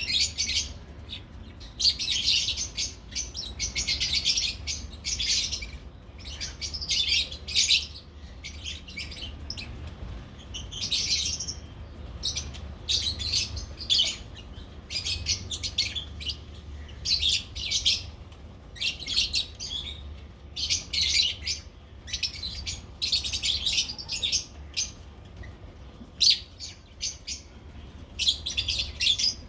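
Lovebirds chattering in repeated bursts of shrill, high chirps, over a faint steady low hum.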